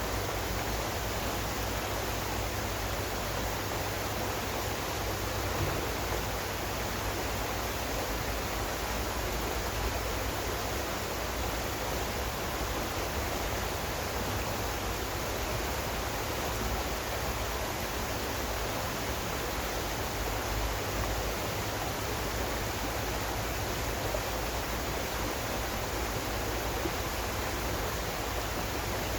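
Steady rushing water, an even hiss spread from deep to high with no changes or splashes.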